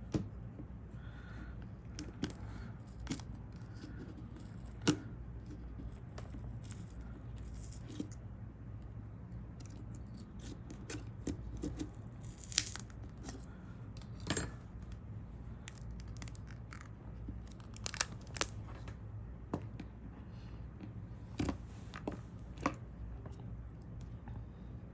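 Small sharp clicks, taps and scrapes of hand tools working on a smartphone's internal parts during disassembly, scattered irregularly over a steady low hum.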